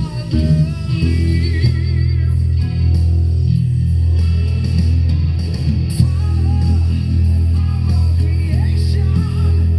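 Music led by a bass guitar playing long, held low notes, with a higher wavering melodic line above.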